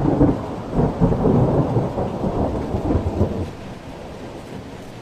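Thunder rumbling over heavy rain in a storm, the rumble easing off about three and a half seconds in.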